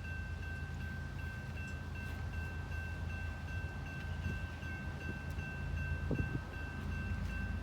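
Railroad grade-crossing bell ringing steadily, a repeated high-pitched ding about two or three times a second, over a low rumble.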